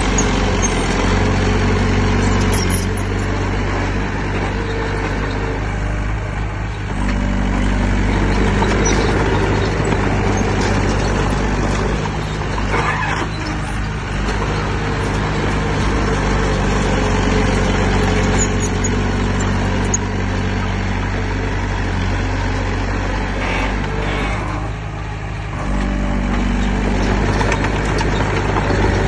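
Heavy diesel engine of earthmoving machinery running steadily under load. Its note changes and dips briefly a few times.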